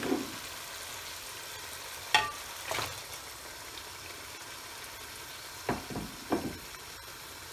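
Spice masala frying with a steady sizzle in a metal pan on a gas hob, with a few sharp knocks and splats, a pair about a third of the way in and three more toward the end, as raw chicken pieces go into the pan.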